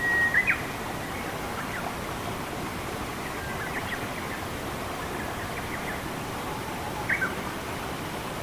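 Steady rush of flowing water with forest birds calling over it: a held whistle at the start, then two short sharp calls, scattered faint chirps, and two more sharp calls about seven seconds in.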